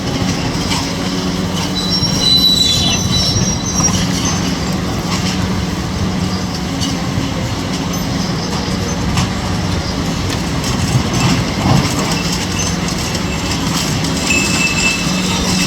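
Kobelco SK850 demolition excavator working steadily, its diesel engine running under load. High metallic squeals come early and again near the end, and a few sharp knocks fall after the middle, as the machine tears at the garage's concrete and steel.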